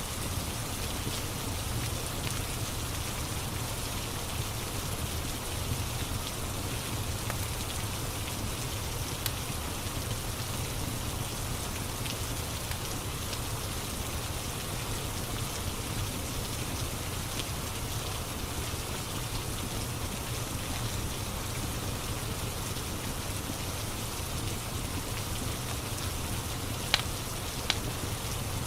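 Steady rain ambience mixed with a crackling wood fire, with occasional faint crackles and two sharp pops near the end.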